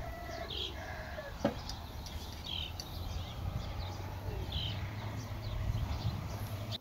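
A bird chirping in the background with a short call about every two seconds, over a steady low hum. There is a single sharp click about one and a half seconds in.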